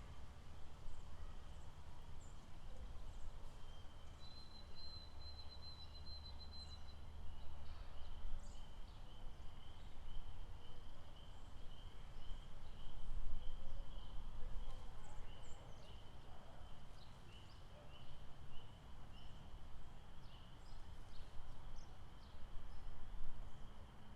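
Outdoor lake-park ambience: a high-pitched animal call repeats about twice a second through most of the clip, after a short steady trill a few seconds in. Scattered brief bird-like chirps and a low rumble run underneath.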